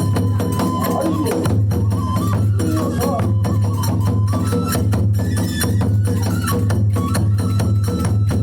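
Kagura hayashi ensemble playing a fast, even rhythm of drum and hand-cymbal strikes, with a bamboo flute line wandering around a high melody over it.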